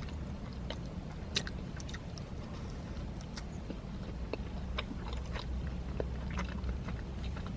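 A person chewing a soft glazed donut close to the microphone: scattered small wet mouth clicks and smacks over a steady low hum.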